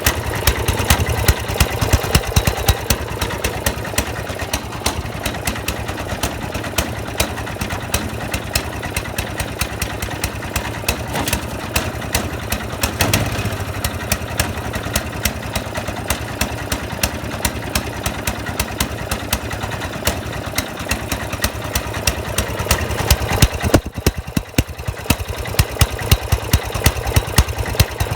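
Snowblower engine running rough and misfiring, with frequent irregular bangs over its steady running.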